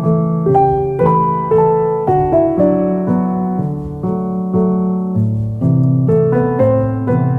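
Background music: solo piano playing a gentle melody over chords, a new note about every half second.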